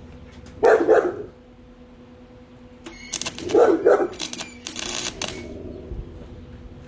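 A dog barking loudly, one bark just under a second in and another about three and a half seconds in, with a stretch of dense crackling from about three to five seconds in.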